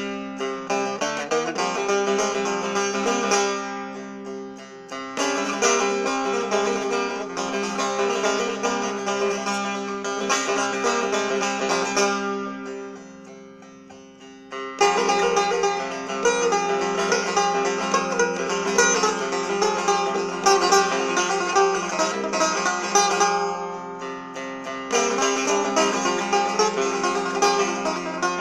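Persian setar, a Farhadi-made Haj Taher-style instrument with a small bowl, played solo: plucked melodic phrases over steady ringing tones. The notes die away briefly about four seconds in and again around the middle before the playing resumes strongly.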